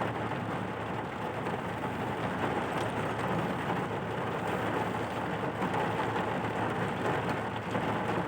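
Heavy rain falling steadily, an even unbroken rush with no distinct drops or knocks.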